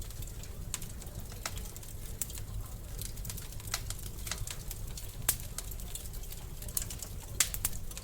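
Wood fire in a fireplace crackling: irregular sharp pops and snaps over a steady low rumble of the burning logs, with the loudest pops about five seconds in and about seven and a half seconds in.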